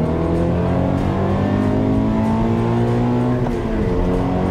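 Subaru BRZ's FA20 flat-four engine accelerating hard under load, heard from inside the cabin. Its pitch climbs steadily with the revs, then drops sharply about three and a half seconds in at an upshift.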